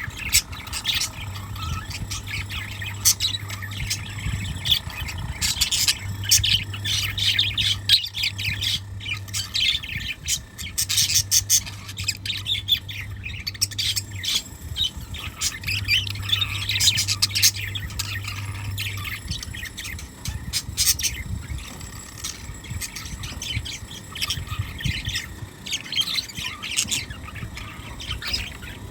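Pet birds chirping and squawking in quick, repeated short calls, with a low hum that comes and goes in stretches of a few seconds.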